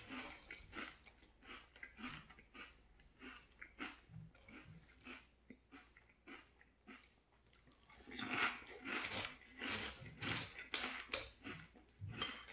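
Close-up crunchy chewing of maple cinnamon Frosted Flakes in milk, a steady run of crunches at about two to three a second. The crunching eases off in the middle, then comes back louder with a fresh mouthful about eight seconds in.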